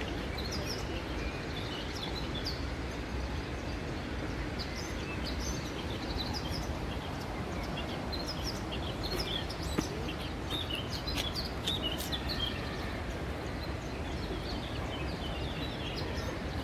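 Small birds chirping and twittering in short, scattered calls over steady low background noise, with a brief click a little past the middle.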